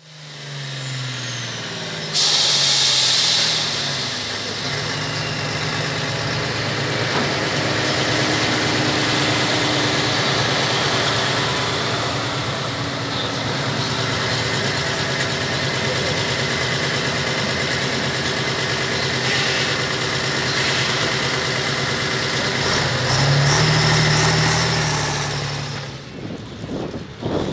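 Turbocharged diesel engine of a super stock pulling tractor running hard under load as it pulls the sled. There is a burst of hiss about two seconds in and a louder surge near the end, before the engine drops off.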